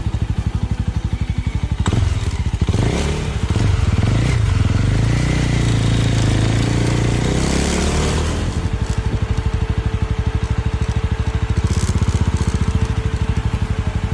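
Small Suzuki motorcycle engine running at low revs with a fast, even exhaust beat. For a few seconds in the middle a louder engine sound swells and fades, then the steady beat goes on with a faint whine over it.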